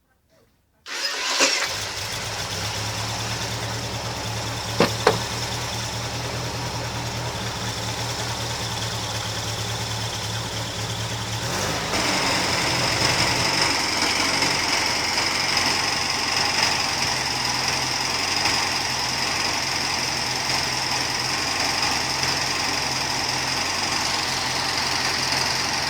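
Air-cooled VW Beetle flat-four engine on an engine stand starting up about a second in and then running steadily at idle, with a couple of sharp clicks about five seconds in. About halfway through, the sound steps up a little louder.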